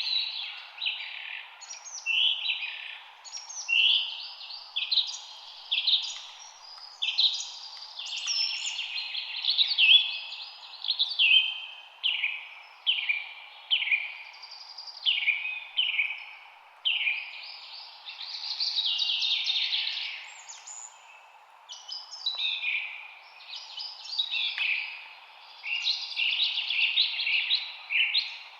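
Songbirds chirping and singing in a dense chorus, short quick phrases following one another without pause, over a steady background hum.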